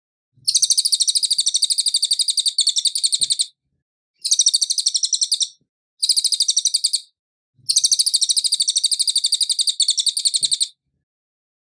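Cililin singing: four bouts of fast, evenly repeated high chirps, the last and longest running about three seconds, with short silent gaps between bouts.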